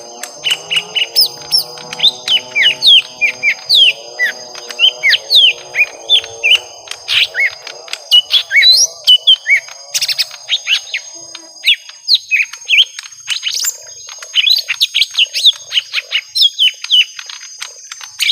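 Young lesser green leafbirds calling against each other in a fight: a dense, rapid stream of sharp chirps and quick whistled notes. A lower warbling layer under the chirps fades out about seven seconds in.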